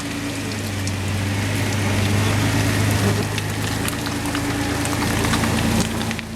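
A stuck off-road SUV's engine held at steady revs under load, with a crackling spatter of mud and grit from its spinning tyres.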